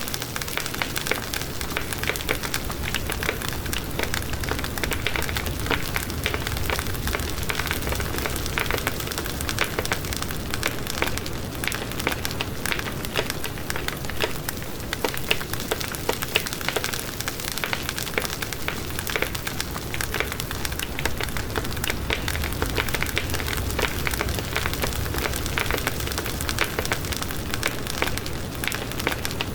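Wood fire burning in a fireplace with a steady low rumble and dense, continuous crackling and snapping.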